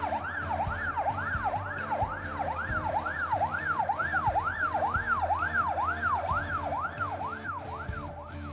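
Emergency vehicle siren in a fast up-and-down yelp, about two sweeps a second, over background music with a steady bass beat.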